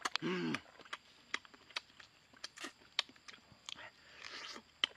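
Close-up eating sounds of a man chewing cooked frog: irregular wet smacks, clicks and crunches of mouth and bones. A brief voiced grunt comes right at the start.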